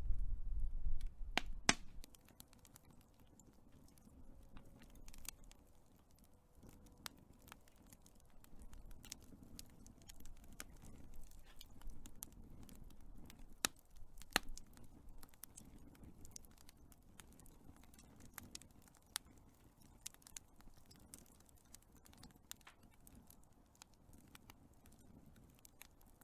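Big wood fire crackling, with irregular sharp pops and snaps scattered throughout. A low rumble is loudest in the first two seconds.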